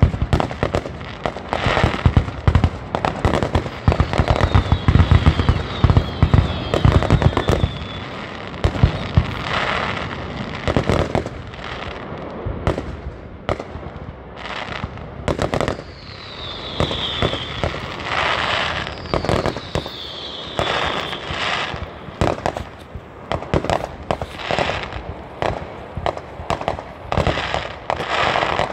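Aerial fireworks display: rapid bangs and crackling of bursting shells throughout, densest with heavy booms in the first several seconds, with a few falling whistles mixed in.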